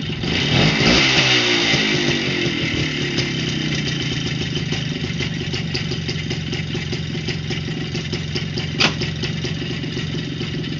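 Minsk motorcycle's two-stroke single-cylinder engine idling, blipped once about half a second in so the pitch rises and falls back to a steady idle. A single sharp knock sounds near the end.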